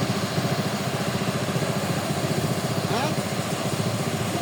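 Engine of a rice harvesting machine running steadily with a fast, even chugging.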